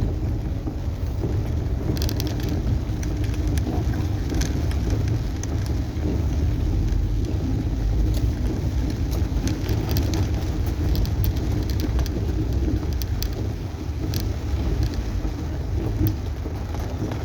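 Rain pattering on a moving car's roof and windscreen, heard from inside the cabin as many irregular drop ticks over a steady low rumble of the car driving.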